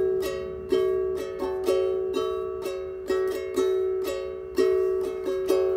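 Ukulele fingerpicked in a repeating figure of plucked notes, several a second, with one note ringing on beneath them.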